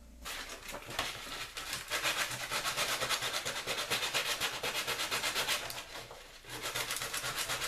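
Sandpaper rubbing quickly back and forth on a wooden plane handle, a steady run of short scratchy strokes that pauses briefly about six seconds in and then starts again.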